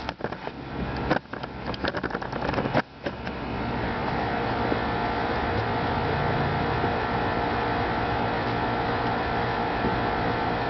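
The 12-valve 2.8-litre VR6 engine of a 2000 Volkswagen Jetta running through a straight exhaust with 3.5 inch dual tips and no muffler, the catalytic converter and resonator still fitted. It is uneven with knocks and dropouts for about the first three seconds, then settles into a steady drone.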